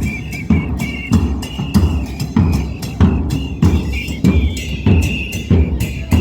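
Carnival parade drums playing live, with a deep drum beat landing evenly, about every 0.6 seconds, under a higher continuous tone.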